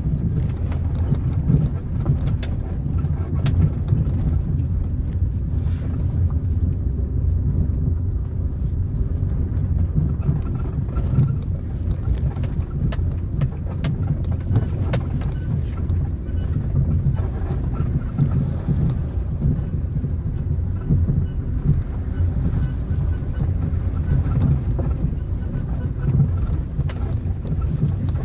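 A car being driven: a steady low rumble of engine and tyres on the road, with scattered light knocks and rattles.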